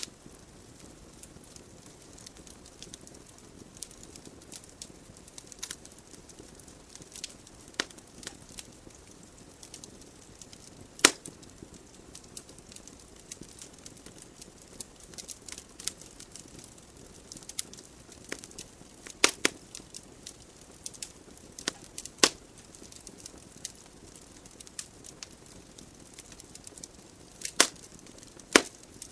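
Wood fire burning in a fireplace: a low steady hiss of flames with frequent small crackles and several sharp, loud pops as the logs burn.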